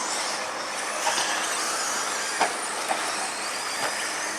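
Radio-controlled stadium trucks racing: a steady high whine of motors and drivetrains mixed with tyre noise, broken by a few short knocks about one, two and a half, and three seconds in.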